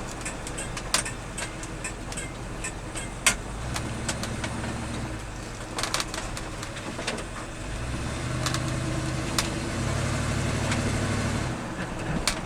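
1978 Ford F-150 4x4 pickup truck being driven, its engine running with a low note that steps up and down several times, with scattered sharp clicks and rattles over it.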